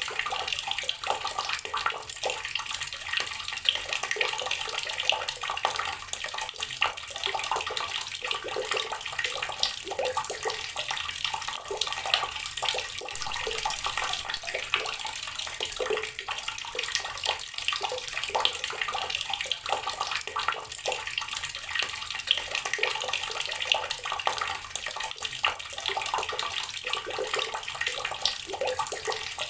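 Water from a tap running steadily and splashing onto rocks, a continuous dense patter of small splashes.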